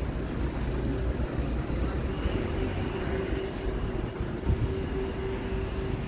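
Rail vehicle running: a continuous low rumble with a steady hum.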